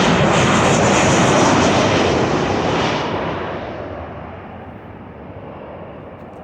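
Jet airliner passing low overhead on its approach, its engine noise loud for about three seconds, then fading away as it moves off, the high hiss dying out first.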